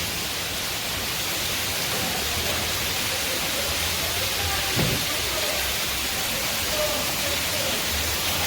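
Steady rushing of waterfall and river water, with one dull thump about five seconds in.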